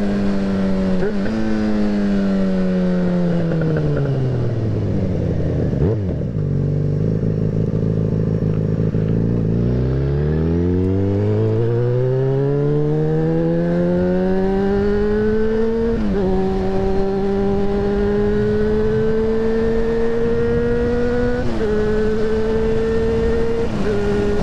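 Yamaha XJ6N's 600 cc inline-four engine as heard from the rider's seat: the revs fall steadily as the bike slows, sit low for a few seconds, then climb again under acceleration, with two upshifts where the pitch drops suddenly, about two-thirds of the way in and near the end. A steady rush of wind lies under the engine.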